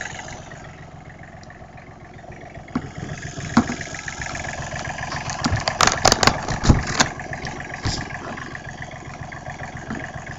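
Small diesel engine running, still warming up, its throttle opened partway through so it runs faster and louder for a few seconds before easing back. A few sharp clicks at its loudest.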